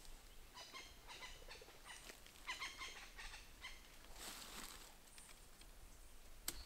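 A bird chirping in a few quick runs of short, high notes, then a brief rustle of leaves and one sharp snip near the end as pruning shears cut a cacao pod from the tree.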